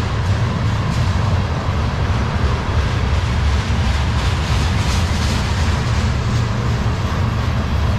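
Railroad tank cars of a freight train rolling past close by: a steady, loud rumble of steel wheels on rail.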